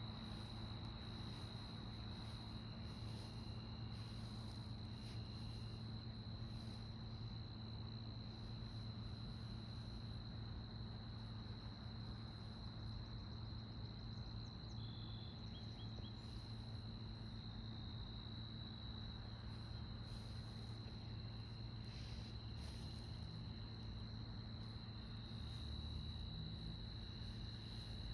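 Insects trilling in one steady, unbroken high-pitched note, over a low steady hum.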